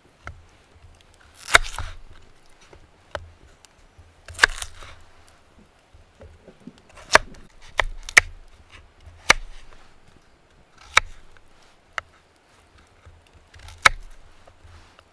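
Firewood being chopped or split: about eight sharp, irregular strikes of a blade into wood, with a few lighter taps between.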